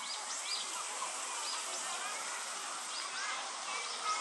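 Small birds chirping: many short, high call notes, several a second, over a steady background hiss.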